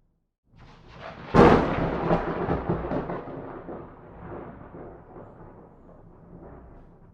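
A single thunderclap: a low rumble swells, breaks into a sharp crack about a second and a half in, then rolls on and slowly fades away over several seconds.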